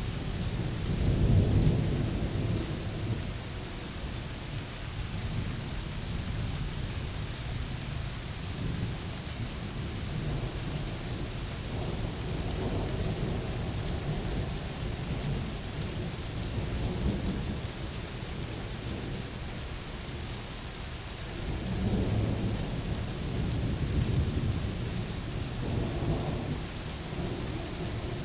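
Thunderstorm: steady rain hissing throughout, with rolling thunder rumbling several times. The loudest rumble comes about a second in, with more through the middle and a cluster in the last third.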